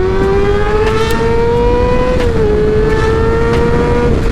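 Motorcycle engine accelerating under the rider, its pitch climbing steadily, then dropping sharply about two seconds in as it shifts up a gear, and pulling on again.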